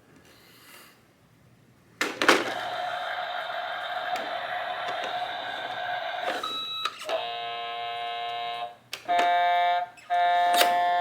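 A toy garbage truck's electronic sound effects from its small speaker: a click about two seconds in, then a long held electronic tone, then a run of shorter tones like beeps.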